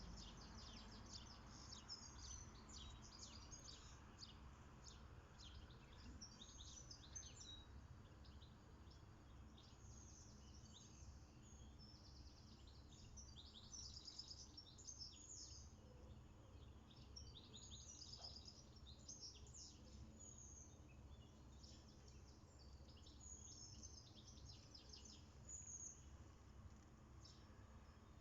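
Faint songbirds chirping and trilling, many short high notes in quick runs throughout, over a low steady background rumble.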